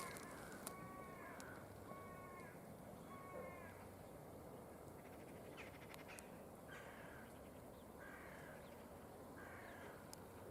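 Faint, distant animal calls in short, harsh, evenly spaced notes: about four in the first few seconds, then three more, slightly higher, in the second half.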